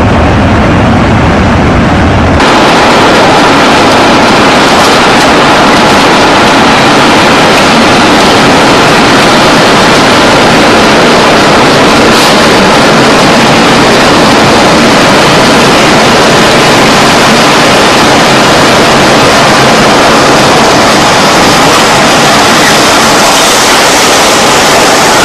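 Very loud, steady roar of tornado-strength wind on the microphone. About two seconds in it changes suddenly from a deeper rumble to a brighter, even hiss.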